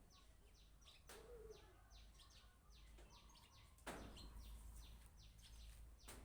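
Faint birdsong: quick, short descending chirps repeated several times a second, with a few soft clicks in between.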